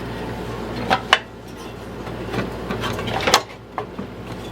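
Small metal parts of a lawn mower carburetor being handled and fitted back together: a few light clicks and knocks, the sharpest a little after one second and just past three seconds, over a steady low hum.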